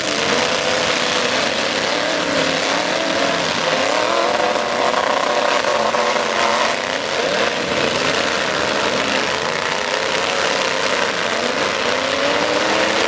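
Engines of several demolition derby trucks running and revving at once. Their pitches rise and fall against each other over a steady rough exhaust noise.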